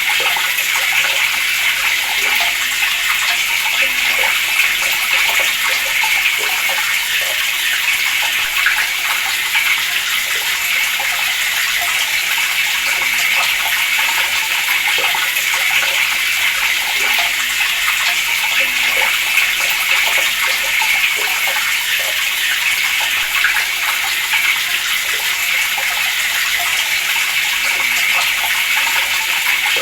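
Water running steadily from a tap, an even splashing hiss that doesn't change.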